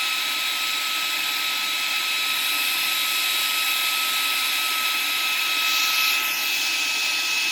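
The ToAuto A3 PCP air compressor's cooling fan running on its own after the compressor has cut out, cooling the machine down. It gives a steady whine of several held tones over a hiss.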